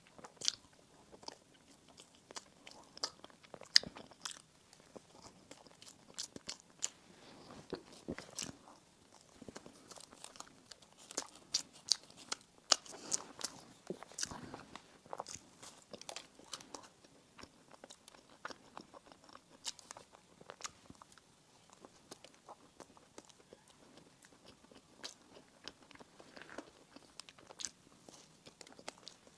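Close-up eating sounds: a person biting and chewing bakery bread and pastries, with many small crisp crackles and smacking clicks, busiest in the middle.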